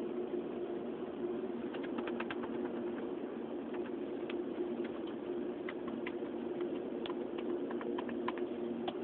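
Hyundai i30 car audio system putting out a steady low hum through its speakers, with faint scattered clicks from about two seconds in. The hum is a sign of the audio system's failure.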